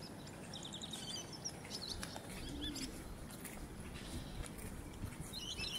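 Birds chirping: short clusters of quick, high calls, with a quick run of notes about half a second in and another cluster near the end, over a steady low background noise.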